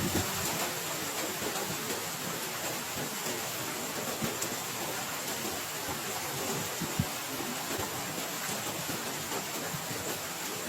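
Heavy rain falling steadily, with many scattered drop impacts and one sharper tap about seven seconds in.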